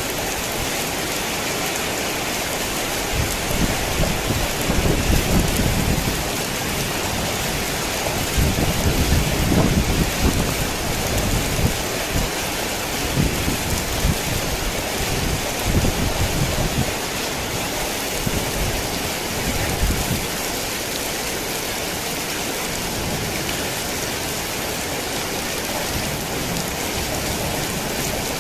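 Heavy rain falling steadily, with rolling thunder rumbling low from a few seconds in, swelling twice, and dying away about two-thirds of the way through.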